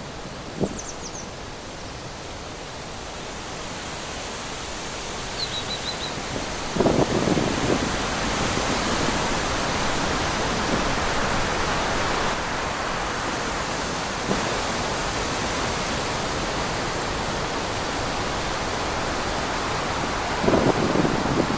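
Steady wind blowing through trees, building over the first several seconds, with brief louder low gusts about seven seconds in and near the end. A couple of faint high chirps sound in the first few seconds.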